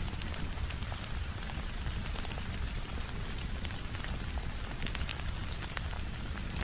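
Steady rain falling on a window over a low rumble, with scattered sharp crackles and pops from a wood fire.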